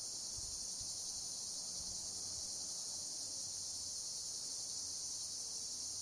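A chorus of insects chirring in summer vegetation: a dense, unbroken high-pitched drone that holds steady throughout.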